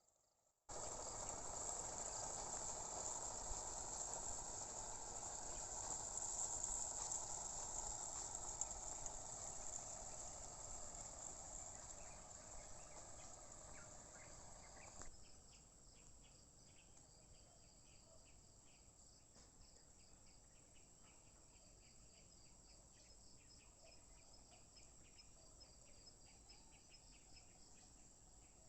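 Insects chirring in a steady high-pitched chorus. A louder, wider hiss sits over them and cuts off suddenly about halfway through, leaving a quieter chorus of rapid pulsing chirps.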